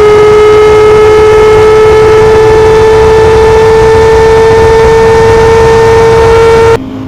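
Sport motorcycle engine held at high revs at a steady pitch during a flat-out run, with wind rush over it; it cuts off abruptly near the end.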